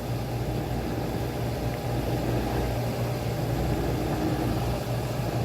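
Maytag dishwasher running mid-cycle, its wash pump motor giving a steady low hum.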